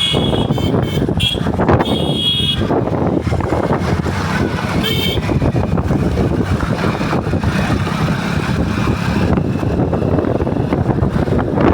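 Motorcycle running on the road with steady engine and wind noise. Short horn honks sound in the first second or so, with one more brief toot about five seconds in.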